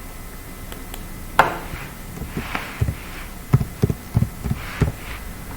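A sharp click, then a series of about seven short, dull low knocks over roughly two seconds.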